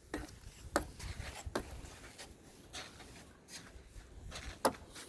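Light, irregular knocks and taps, about six over a few seconds, with scraping and rubbing noise between them.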